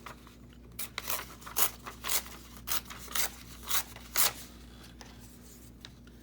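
Scissors cutting paper in about nine quick snips, roughly two a second, stopping a little past four seconds in.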